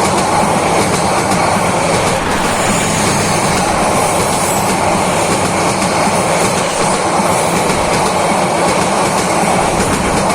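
Bangladesh Railway intercity passenger train running at speed: a loud, steady noise of wheels on the rails that does not let up.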